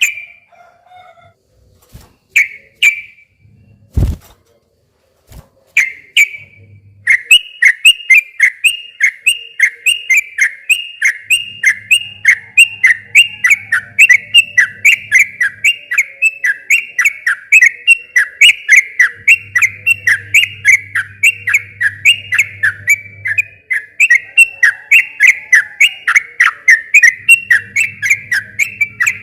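Yellow-vented bulbul (trucukan) singing: a few separate whistled notes, then from about seven seconds in a long, rapid roll of repeated notes, about three a second, that runs on without a break.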